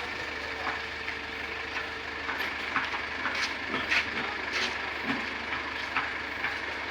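A truck engine running steadily, with scattered irregular clacks and knocks, thickest around the middle.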